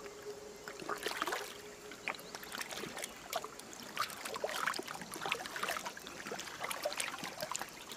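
River water splashing and sloshing in many small, irregular splashes.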